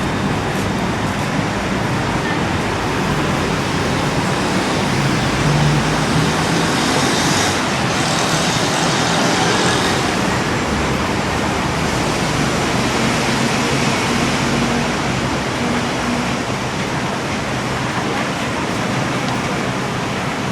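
Steady running noise inside a BTS Skytrain carriage in motion, a rumble and hiss with a faint low hum, swelling a little about six to ten seconds in.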